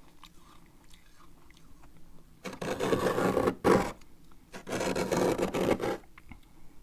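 Spoon scraping frost from the inside of a freezer: two long scrapes, the first about two and a half seconds in and the second about four and a half seconds in, with a short sharp stroke between them.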